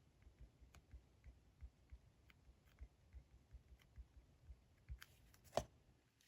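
Faint desk-work handling of diary and stationery: soft low knocks and small ticks, then a brief cluster of sharp clicks near the end, one much louder than the rest.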